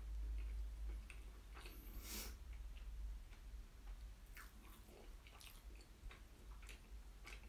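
A person chewing food with the mouth closed, close to the microphone: soft wet smacks and clicks now and then, the loudest about two seconds in.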